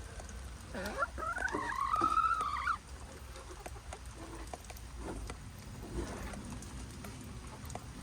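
A chicken gives one drawn-out call, starting about a second in and lasting about two seconds, with scattered light ticks.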